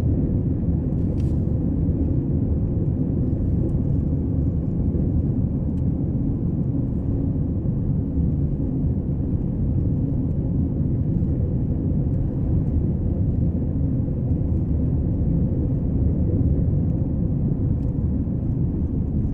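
Steady low rumble of a moving car, road and engine noise.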